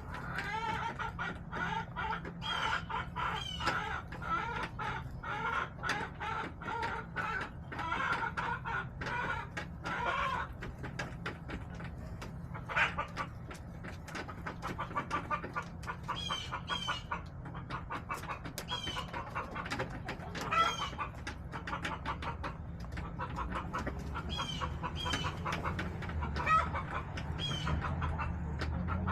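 A mixed flock of backyard hens clucking: many short clucks in quick succession, with a few higher, drawn-out calls in the second half.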